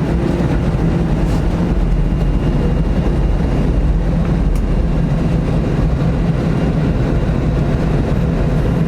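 Airbus A321 jet engines at takeoff thrust heard inside the cabin: a loud, steady rumble with a low hum.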